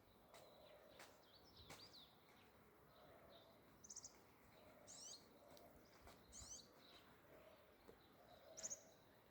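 Faint birds chirping: a few short, high chirps about a second apart, with fainter short low calls between them.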